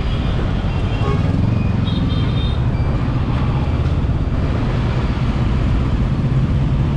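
Motorbike engine running with road and wind noise while riding in traffic, with a few short horn beeps about one to two seconds in.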